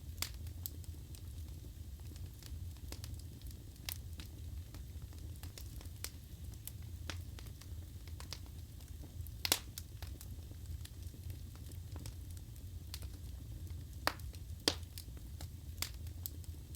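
Wood fire burning in a fireplace: a steady low rumble of the flames with irregular sharp crackles and pops from the burning logs, the loudest pops about nine and a half and fifteen seconds in.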